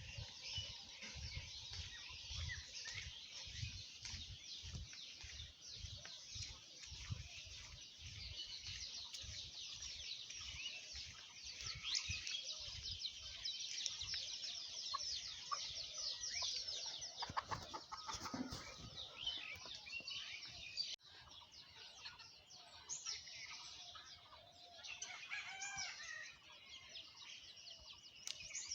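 A village dawn chorus: many small birds chirping continuously, with a rooster crowing about two-thirds of the way through and chickens clucking. For roughly the first twelve seconds a run of low thumps, about two a second, sits under the birdsong.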